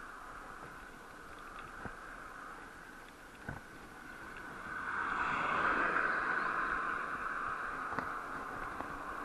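Steady wind and road rush from riding, with a few faint clicks. It swells loudly about five seconds in and eases off again after a couple of seconds.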